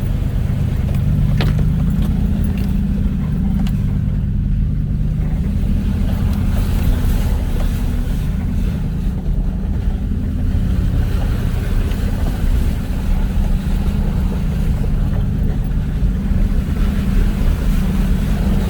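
An off-road vehicle's engine running steadily at low speed on a rough trail, a constant low rumble. There is one sharp knock about a second and a half in.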